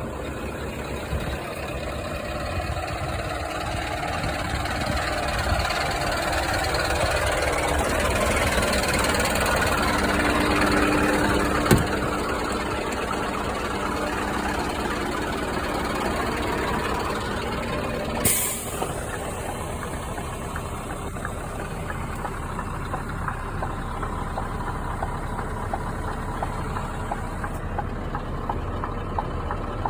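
Scania truck diesel engine running steadily. Its sound builds gradually over the first ten seconds or so and then settles. There is a sharp click about 12 seconds in and a short hiss of air, like an air brake, about 18 seconds in.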